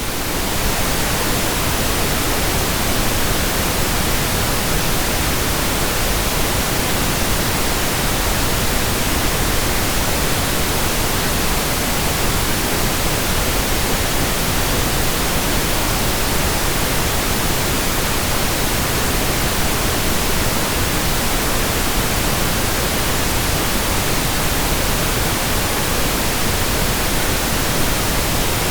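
Steady pink noise: an even, unchanging hiss spread across all pitches, with no tones or events in it.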